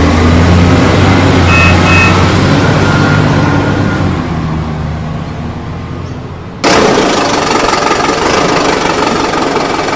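A vehicle engine running with a steady low hum that fades over a couple of seconds. About two-thirds of the way in it cuts off abruptly and a harsher, noisier motor sound takes over.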